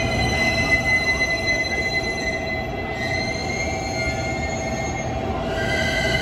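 A JR Kyushu 787-series electric express train pulls slowly into the platform. Under its low rumble runs a set of steady high-pitched tones. The tones shift to new pitches about three seconds in and again near the end.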